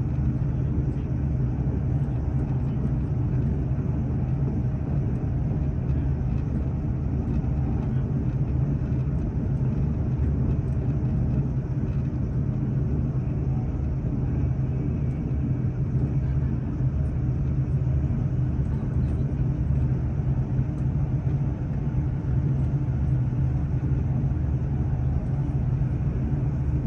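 Steady running noise of a moving train heard from inside the carriage: a constant low rumble with a droning hum beneath it.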